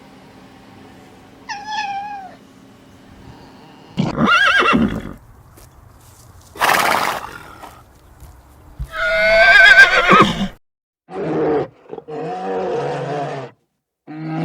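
Horse neighing and snorting: a breathy snort a little before the middle, then a loud whinny with a shaking pitch, followed by shorter, lower calls near the end.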